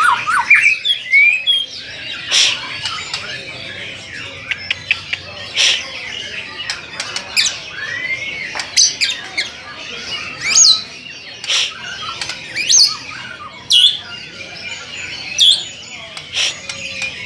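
White-rumped shama (murai batu) singing continuously: loud, sharp whistled notes and rising glides every second or two, with softer chirps in between.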